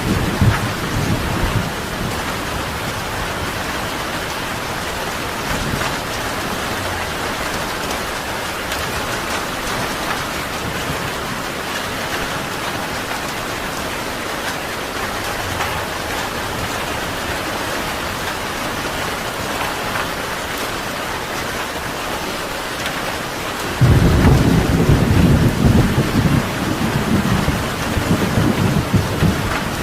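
Steady rain falling. About 24 seconds in, a loud low thunder rumble starts suddenly and rolls on to the end, and a fainter rumble fades out at the very start.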